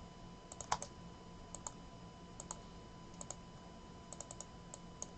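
Faint, light clicks of a computer keyboard, single and in quick runs of two to four keystrokes, spread out over a few seconds.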